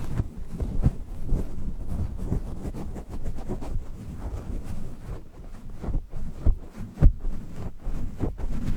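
Sleep-aid noise track: a steady low rumbling noise with frequent, irregular soft thumps.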